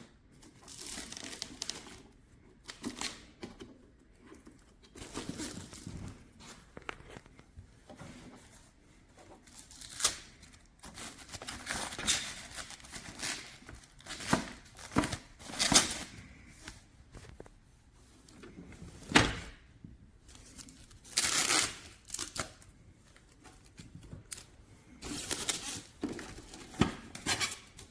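Cardboard box and plastic packing material being handled and pulled apart: irregular rustling, crinkling and tearing, with louder grabs every few seconds.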